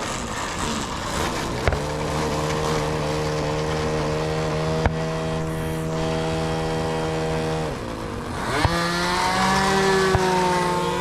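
Radio-control model airplane engine running at a steady speed. About eight seconds in it throttles down briefly, then revs back up with rising pitch.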